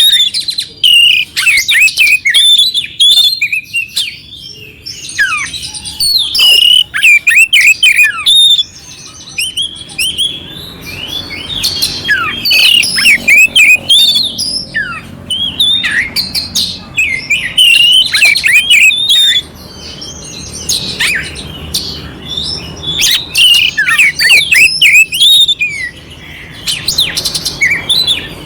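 Oriental magpie-robin (kacer) singing loudly in bursts of rapid, varied whistled notes mixed with coarse, scratchy fill-in phrases. Each burst lasts a few seconds, with short pauses between.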